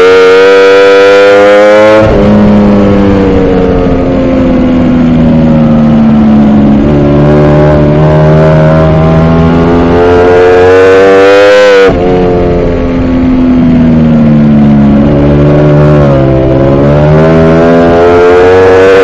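Ducati V4R's V4 engine on a race track, heard from the bike: the revs climb under throttle, drop abruptly about two seconds in and again near twelve seconds, sink slowly between, and climb again near the end.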